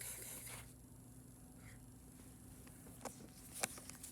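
Quiet room tone with a faint steady hum, a soft hiss at the start and a few short faint clicks near the end.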